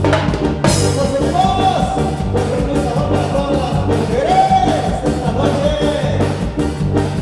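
Live band music: a steady drum beat under a melody line that rises and falls, with a bright crash under a second in.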